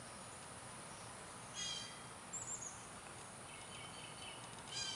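Faint outdoor background with a few short bird chirps: one about a second and a half in, a higher one just after, and another near the end.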